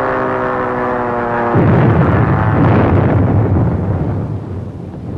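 A pitched drone, slowly falling in pitch, is cut off about a second and a half in by a bomb explosion, whose rumble fades over the next few seconds.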